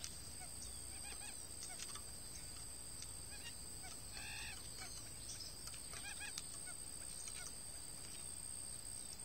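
Faint, scattered bird chirps, with one short call about four seconds in and a quick cluster of chirps around six seconds, over a steady thin high-pitched hum.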